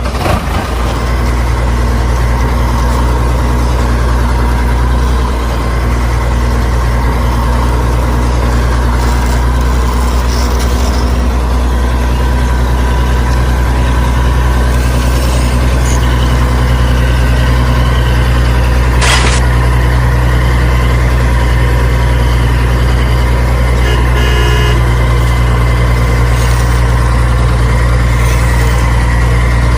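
Tractor engine running steadily at idle, a low, even drone with a brief sharp click about nineteen seconds in.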